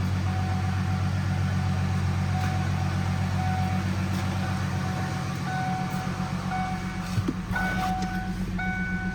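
1995 Ford Mustang's 3.8-litre V6 running at a steady idle. In the second half, short high beeping tones come and go over it, with a single click about seven seconds in.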